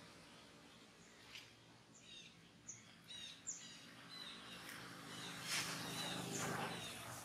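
Birds chirping: a scatter of brief high chirps and quick sweeping calls, more frequent in the second half, over a faint low background hum.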